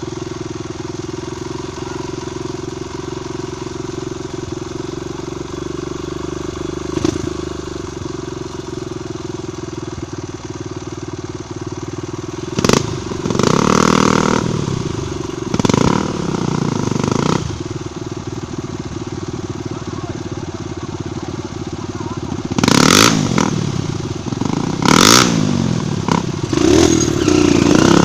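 Trail motorcycle engine running steadily, with louder stretches of revving about halfway through and again near the end.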